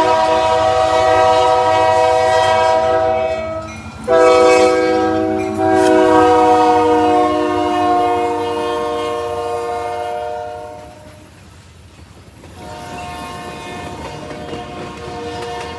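Locomotive air horn sounding long chord blasts: one held to about four seconds in, a second after a brief break lasting to about ten seconds in with its pitch sagging slightly, then a fainter blast after a short lull near the end. A low train rumble runs underneath.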